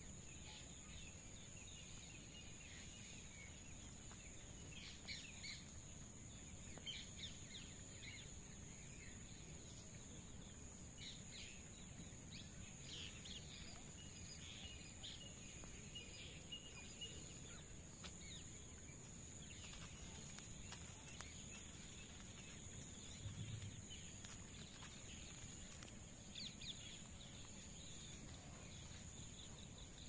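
Faint outdoor ambience: scattered soft bird chirps in short clusters over a steady high-pitched whine.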